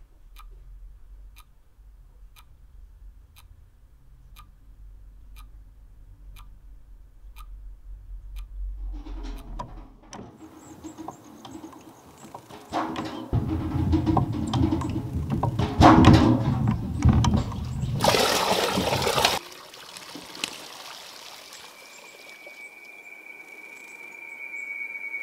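Horror film sound design: a low rumble with a faint tick a little more than once a second, then a loud rushing swell of noise that cuts off suddenly, followed by a thin, steady high whine.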